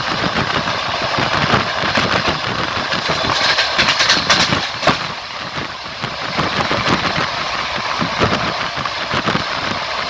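Passenger train running along the line, heard from a carriage window: the rolling noise of the wheels on the rails with a steady irregular clatter and clicking, louder and hissier for a moment about four seconds in.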